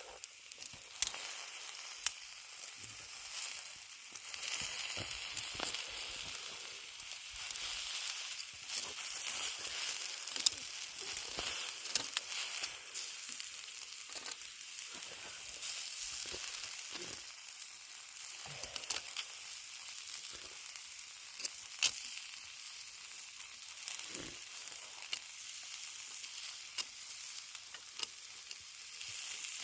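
Chicken and a pork chop sizzling on a flat rock used as a griddle over a campfire: a steady frying hiss with scattered sharp pops.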